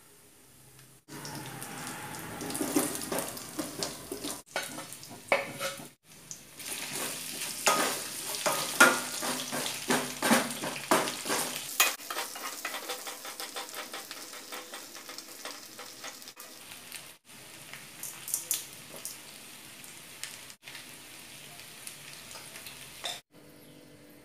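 Hot oil sizzling in a stainless steel pot as sliced potatoes fry with a tempering of mustard seeds, dried red chillies and curry leaves. A metal spatula scrapes and clacks against the pot while stirring. The first half is loud with clattering and scraping, and it settles to a steadier, quieter sizzle, cut off briefly several times.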